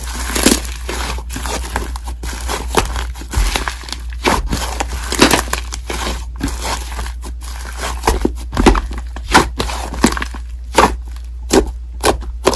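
Slime being squished, stretched and pressed by hand, making irregular sticky pops and crackles, with a few louder pops in the second half.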